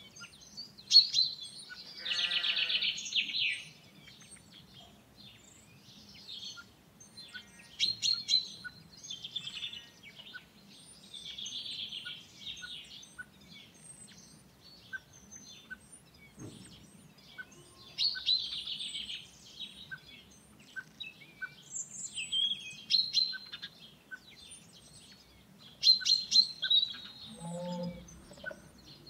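Farmyard ambience: many small birds chirping and singing in short bursts, with a louder drawn-out animal call about two seconds in and a brief lower call near the end.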